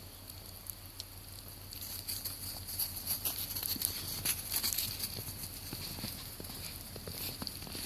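Footsteps crunching in snow: a rapid, uneven patter of short crunches that gets busier and louder about two seconds in.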